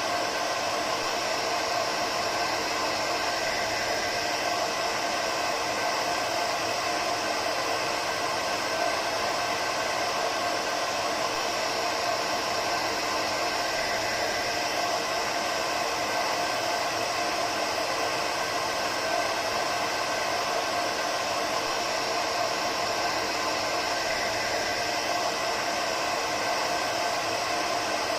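Hair dryer running steadily: an even rushing blow of air with a faint steady motor hum, unchanging throughout.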